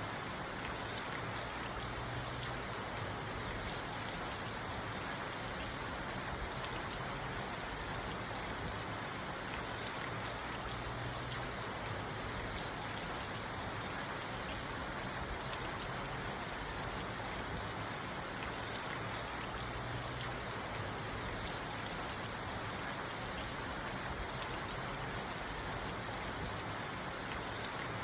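Steady rain falling on a parked car, heard from inside the cabin: an even hiss of drops on the roof and glass with no thunder.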